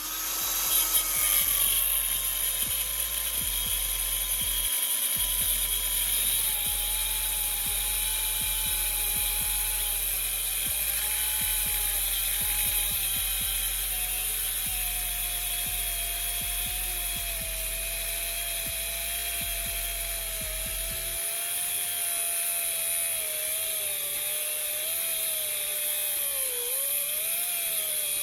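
A grinder spinning a thin cut-off disc cuts through a steel shift shaft in a Suzuki Carry mini truck's transmission, shortening it to unlock 5th gear. It runs as one unbroken whine that slowly sinks in pitch as the disc bites in, over a high gritty hiss.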